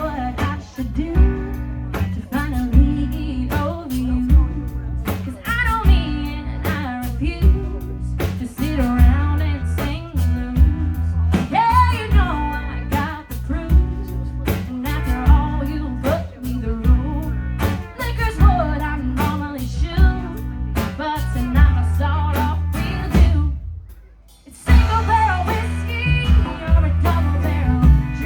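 A rock band playing with a singer over guitar and drums with a steady beat. About three-quarters of the way through the band drops out for under a second, then comes back in.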